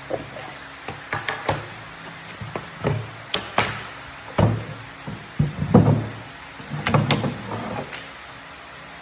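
A string of irregular knocks and clunks, about a dozen, loudest a little past the middle, over a faint steady hum.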